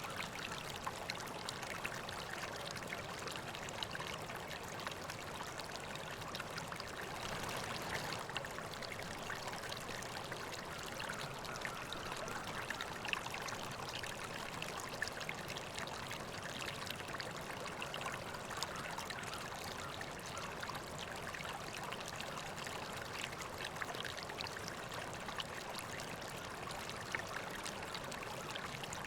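A river or stream flowing steadily, with small splashes and trickles running through it.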